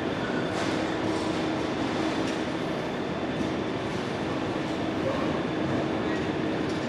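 GBRF Class 66 diesel-electric locomotive, with its two-stroke diesel engine, running steadily while the train stands at the platform, with a faint steady hum over it.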